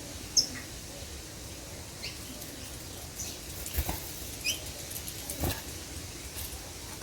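Small songbirds at bananas giving scattered short, high chirps, the loudest just after the start. Two brief knocks come in the middle, about a second and a half apart.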